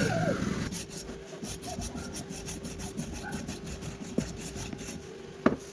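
Quick, even scraping strokes of a hand tool, several a second, as when sawing, filing or scraping during a battery repair, ending with a sharp knock near the end.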